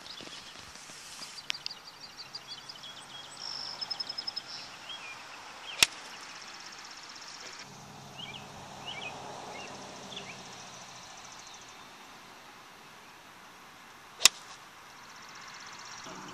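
Two golf shots: a club striking the ball with a sharp crack, twice about eight seconds apart, the second louder. Birds chirp and trill in the background.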